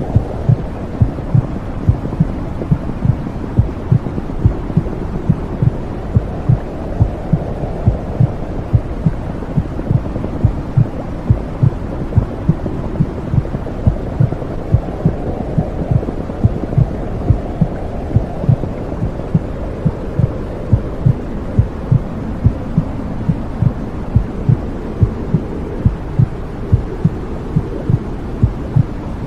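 Womb-sound white noise: a muffled heartbeat thumping regularly, about twice a second, over a steady low whooshing rush.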